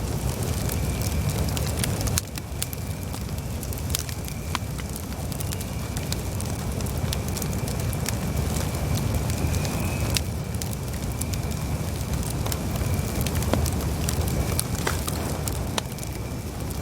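Wood campfire burning: a steady low rumble of flames with frequent sharp crackles and pops from the burning logs, and a faint thin high whistle now and then.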